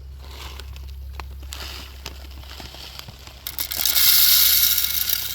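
Wild bird seed mix (corn and sunflower seeds) poured from a bag into a bird feeder: crinkling of the bag and scattered seed ticks, then from about three and a half seconds in a loud, steady hiss of seed streaming into the feeder.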